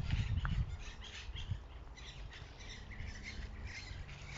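Many small songbirds chirping and twittering in quick, overlapping calls, with a low rumble in the first half-second.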